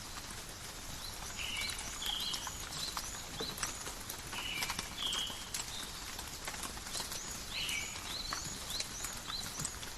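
Steady rain pattering and dripping in a forest, with many small drop taps, while birds repeatedly give short whistled notes and chirps.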